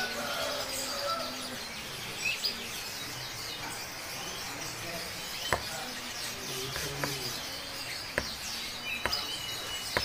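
Small caged birds chirping in short, scattered calls, with four sharp clicks in the second half.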